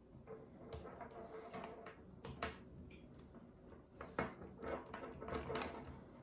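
Light, irregular clicks and taps of small metal parts being handled and fitted together: the spring, bowl and cap of an oil-line check valve going back together, with the sharpest click about four seconds in.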